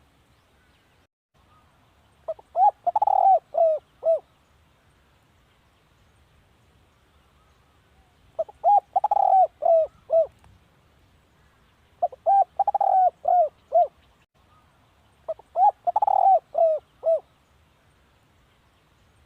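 Spotted dove cooing: four phrases, each a quick run of several short, arched coos, with pauses of a few seconds between the phrases.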